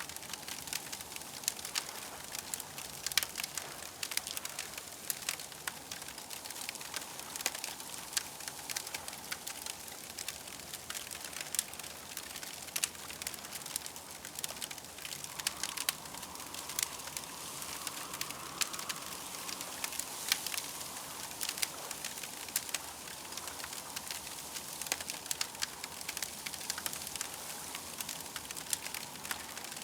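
Campfire crackling: frequent sharp pops and snaps over a steady soft hiss, with a faint steady tone underneath that swells for a few seconds about halfway through.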